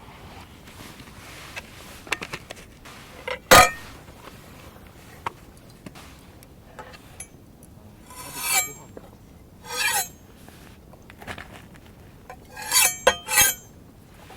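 Metal cookware and utensils being handled: a sharp clink about three and a half seconds in, then three short scraping rattles, the last near the end ringing briefly.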